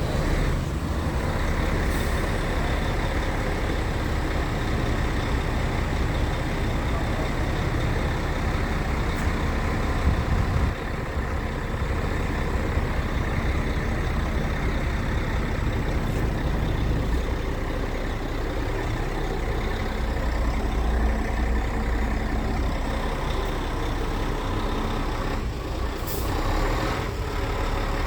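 Scania R truck tractor unit's diesel engine running steadily with a low rumble, with a brief sharp hiss near the end.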